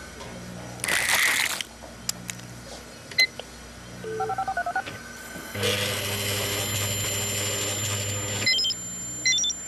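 Office fax machine and printer sounds: a brief rustling burst, then single keypad beeps and a quick run of short dialing tones. A steady electronic buzz follows for about three seconds as the fax sends and the page prints, ending in a few short high beeps.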